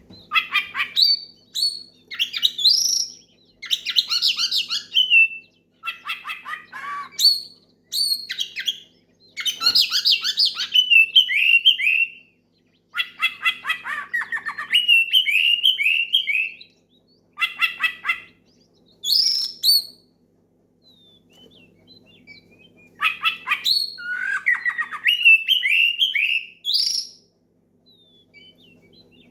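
Oriental magpie-robin (kacer) singing a loud, full song to call out rivals: phrases of quick varied notes and falling whistles, each a second or two long, with short pauses between them and a longer break about two-thirds of the way through. A faint steady hum lies underneath.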